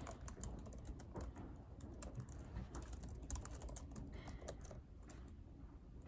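Typing on a computer keyboard: quick, irregular key clicks, soft and faint, over a low steady background hum.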